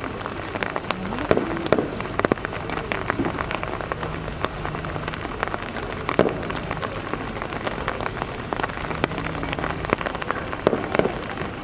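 Rain falling steadily, with many separate drops ticking sharply at irregular moments.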